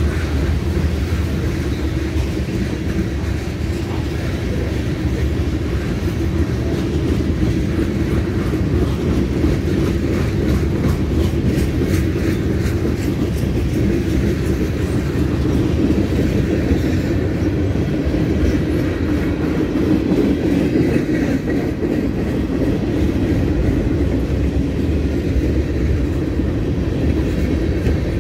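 A freight train's cars rolling past close by: a steady rumble of steel wheels on rail, with some clicking and clatter from the wheels.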